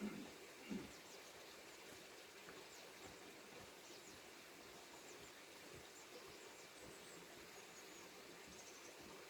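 Near silence: faint outdoor background with faint, short, high chirps scattered throughout, and two soft low thumps in the first second.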